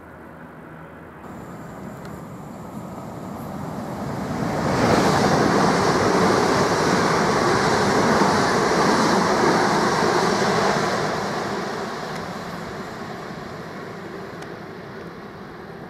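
Southern Class 377 Electrostar electric multiple unit passing close at speed: wheel and rail noise builds up, stays loud for about six seconds, then fades as the train moves away.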